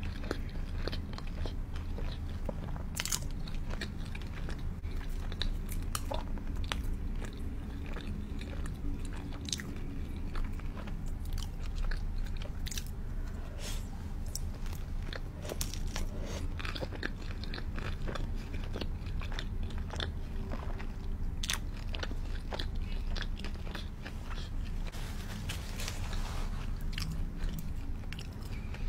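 Close-miked biting and chewing of cheese pizza, with many short crisp crunches and clicks from the crust and mouth over a steady low hum.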